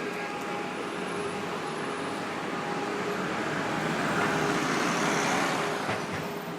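City street traffic with a steady engine hum. A vehicle passes close, growing louder a few seconds in and fading again near the end.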